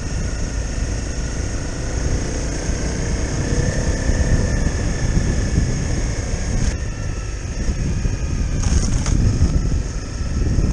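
Honda CRF250L single-cylinder trail bike engine running steadily under way, its note rising a little about three seconds in. Heavy low wind rumble on the microphone.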